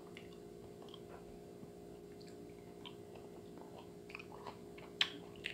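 Faint, wet chewing and biting of a boiled balut duck egg, small mouth clicks with a few sharper ones near the end, over a steady low hum.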